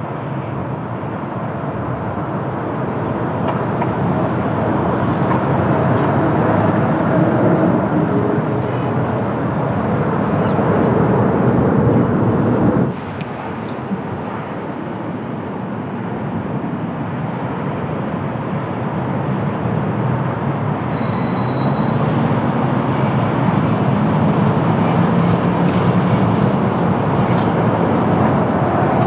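Airliner jet engines on approach to land, a steady rumbling roar that swells louder, cuts off abruptly about 13 seconds in, then builds again as another approach begins.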